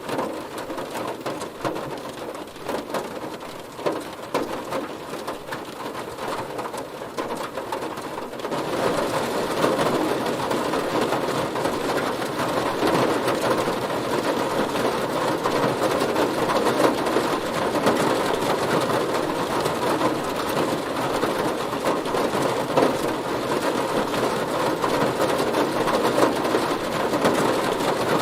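Heavy rain falling on a car, separate drop hits audible at first; about eight seconds in it turns louder and denser, a steady rush of rain.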